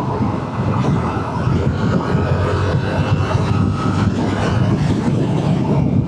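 Motorcycle running steadily at cruising speed, with the engine's low drone heard on the rider's microphone.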